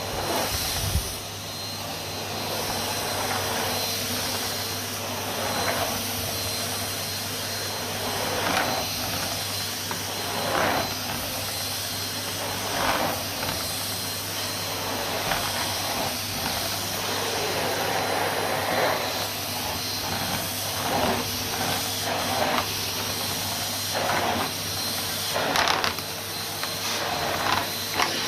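Numatic Henry HVR160 cylinder vacuum cleaner running while vacuuming: a steady airy hiss over a motor hum. The hiss swells briefly every couple of seconds.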